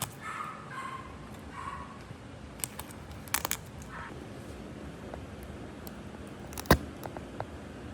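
A few sharp clicks and taps, the loudest about seven seconds in, over a steady low background noise, with a faint voice at the start.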